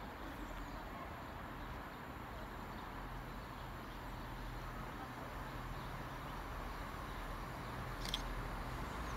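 Distant approaching train: a low, steady rumble and hum that slowly grows louder as it nears. A brief high chirp about eight seconds in.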